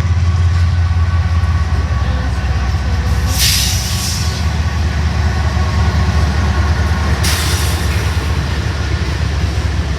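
Norfolk Southern freight train with diesel locomotives passing close by: a loud, steady low rumble, with two short hissing bursts, one about three and a half seconds in and one about seven and a half seconds in.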